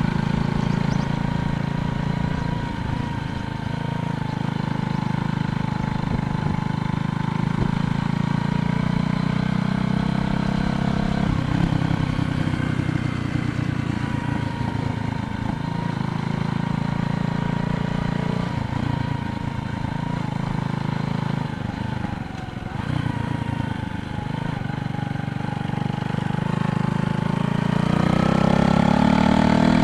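Motor vehicle engine running steadily, with an engine rising in pitch and growing louder near the end as a vehicle speeds up or draws closer.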